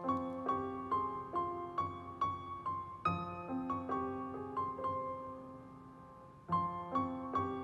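Gentle background piano music: a repeating figure of single notes at about two notes a second, with a new phrase starting about three seconds in and another near the end.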